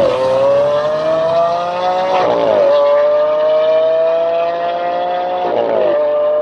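Mercedes-AMG GT S twin-turbo V8 through an ASG exhaust, accelerating hard through the gears: the engine note climbs steadily and dips at two upshifts, about two seconds in and again about a second before the end.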